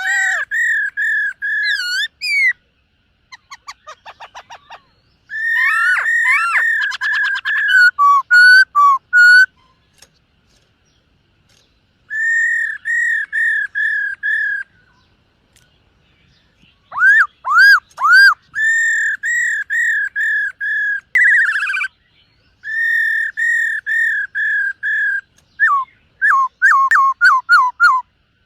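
Black-throated laughingthrush singing: loud phrases of clear, repeated whistled notes, several quick notes to a phrase, with short pauses between phrases. A faint rapid trill comes about four seconds in, and the last phrase near the end is a fast run of falling notes.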